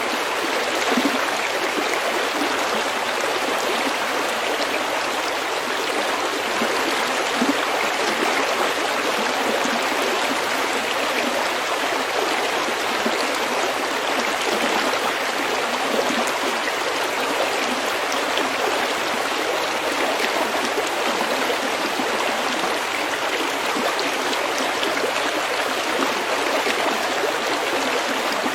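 Small stream flowing over stones, a steady even rush of water.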